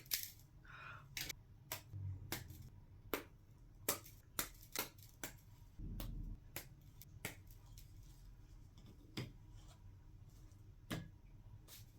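Pre-scored gingerbread pieces from an Oreo mini village cookie kit being snapped apart by hand: a string of small, sharp, irregular snaps and clicks, with a dull low bump about halfway through.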